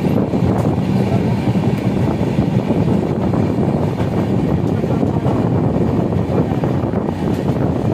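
Train running along the line, heard from on board: a steady rumble of wheels on the rails mixed with wind noise.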